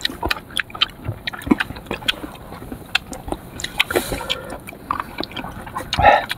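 Close-up chewing and biting of sour fruit: a run of irregular wet smacks and crunchy clicks from the mouth.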